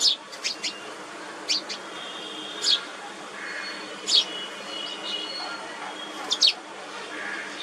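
Small wild birds chirping: about nine short, sharp, high chirps at irregular spacing, some in quick pairs, over fainter held whistled notes from other birds.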